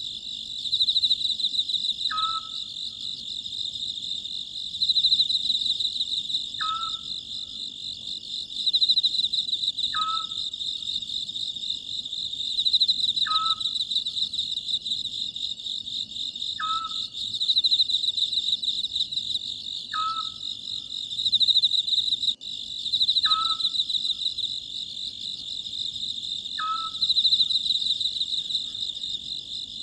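Oriental scops owl calling, a short falling whistled note repeated about every three seconds, over a continuous high chorus of crickets trilling that swells and fades every few seconds.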